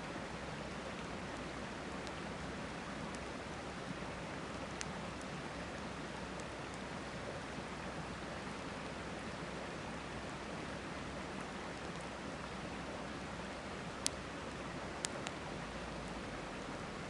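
Steady rushing of a river with a wood campfire crackling now and then: a few sharp pops, the loudest about fourteen seconds in and two more a second after it.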